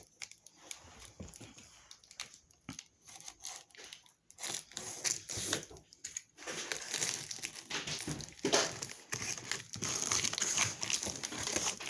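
Cardboard box being cut open and handled: irregular scraping, crinkling and tearing of cardboard and packing tape, fainter at first and busier over the last half.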